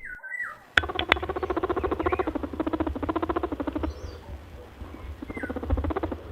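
Rabbit sounds: a fast, steady train of soft pulses, about a dozen a second, starting about a second in, with a few short high squeaks over it.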